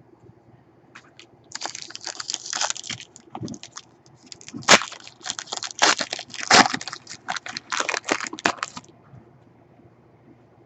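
A foil trading-card pack wrapper being torn open and crinkled: a run of crackling rustles lasting about seven seconds, with a few sharper snaps in the middle.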